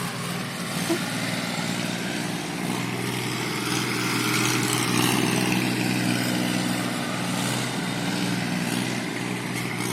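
Tractor engine running steadily, a little louder around the middle.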